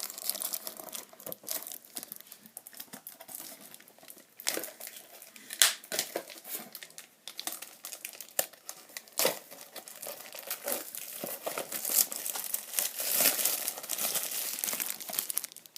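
Stiff plastic blister packaging crinkling and crackling as a small toy figure is worked free of it by hand, with irregular sharp clicks and rustles.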